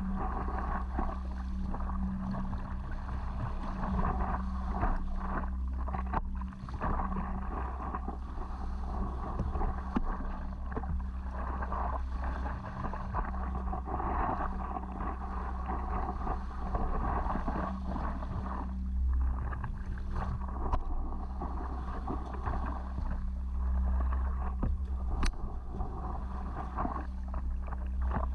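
Water sloshing and splashing against a stand-up paddleboard moving through small waves, over a steady low rumble of wind on the microphone, with an occasional faint click.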